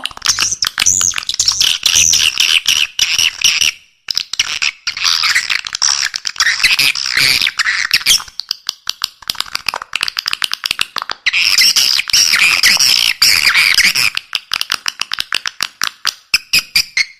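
Edible-nest swiftlet calls played as a lure track: dense, rapid chattering of clicks and buzzy trills from many birds, pausing briefly about four and eight seconds in.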